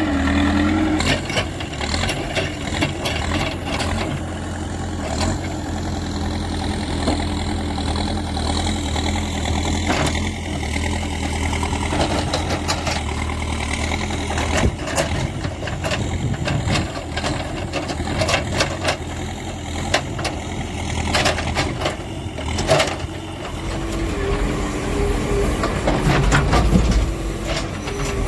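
Backhoe loader's diesel engine running steadily while the machine works, with frequent sharp knocks and clanks scattered through it. The engine note shifts in the last few seconds.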